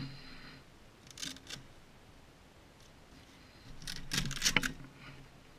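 Gear being handled: short clicks and rustles from the vest and its fittings, a brief group about a second in and a louder cluster of clicks around four seconds in.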